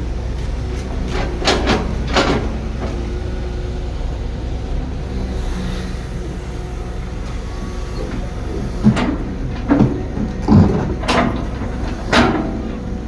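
Heavy diesel construction machinery running steadily, with sharp metallic clanks and knocks: a pair about a second and a half in, and a cluster of five in the second half.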